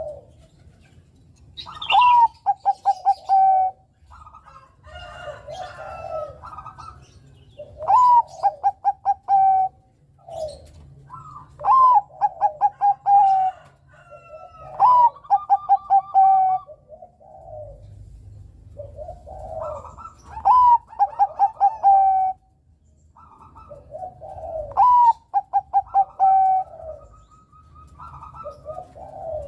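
Zebra dove (perkutut, Bangkok strain) singing its cooing song: six loud phrases, each a rising opening note followed by a quick string of short coos, with softer cooing between the phrases.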